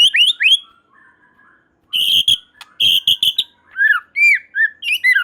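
White-rumped shama (murai batu) singing: a few rising whistled notes, a short pause, then two quick runs of harsh, rapid chattering notes and a string of arched whistles.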